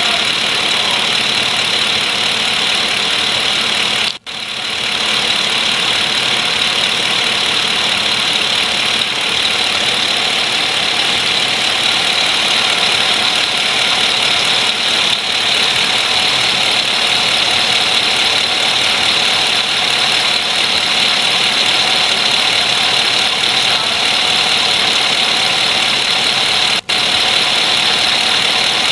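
2014 Chevrolet SS's 6.2-litre LS3 V8 idling steadily, heard from close to the crankshaft harmonic balancer and accessory belt at the front of the engine. The sound drops out for a split second twice, about four seconds in and near the end.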